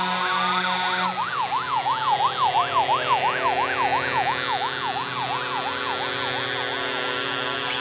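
Two vehicle sirens sounding together. One gives a slow wail that rises and then falls. From about a second in, the other gives a fast yelp of roughly three to four pitch swings a second, over a steady hum.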